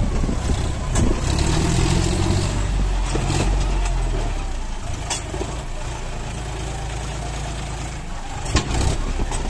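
Farm tractor's engine running under load, its pitch rising and falling for the first few seconds and then settling to a steadier, slightly quieter run. A few sharp knocks sound over it, about a second in, near three and a half seconds, around five seconds and near the end.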